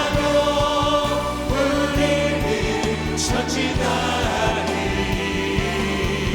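Contemporary worship song played live by a band with a choir of singers: voices holding long notes over bass and keyboards, with a steady drum beat.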